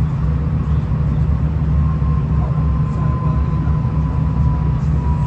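V/Line VLocity diesel railcar, heard from inside the carriage: a steady low rumble of the engine and running gear, with a faint thin whine that sinks slightly in pitch.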